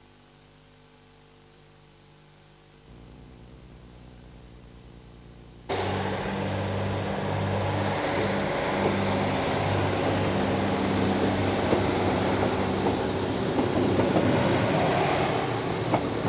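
Quiet steady hum, then about six seconds in an abrupt switch to a loud train running on the line, with a pulsing low throb and a faint high whine.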